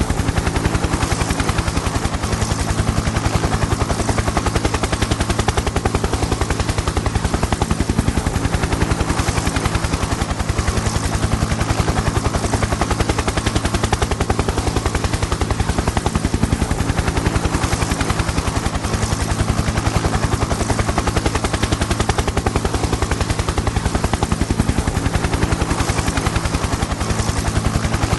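Helicopter in flight, its main rotor chopping in a rapid, even beat over a steady low engine drone. The sound holds level, with no rise or fall.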